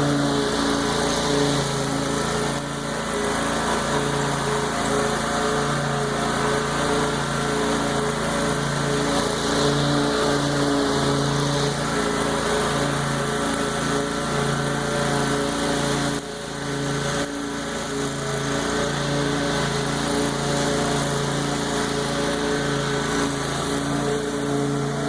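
Lawn mower engine running steadily while cutting overgrown tall grass, dipping briefly about sixteen seconds in.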